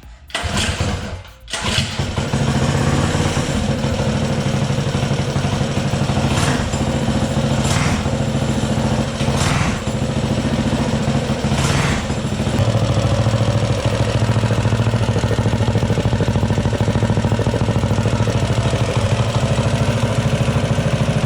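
Predator 212 single-cylinder minibike engine starting after two short tries, catching about a second and a half in, then running steadily, with a few brief sharp bursts in the middle. The engine is running again after a rebuild for a broken valve.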